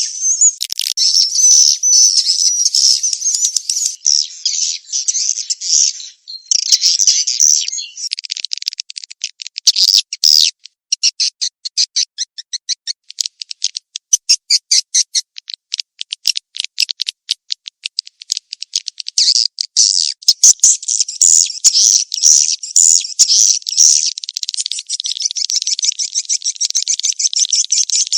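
Recorded edible-nest swiftlet calls of the 'mating chase' type used as a lure: dense, high-pitched twittering chatter. A short break comes about six seconds in, then a long run of rapid separate chirps and clicks, before the dense twittering returns near 19 seconds.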